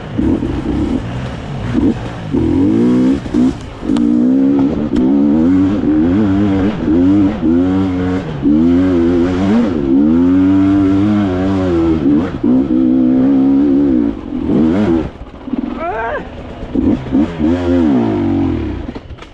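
Dirt bike engine revving up and down over and over, the pitch rising and falling with the throttle as the bike works over trail terrain.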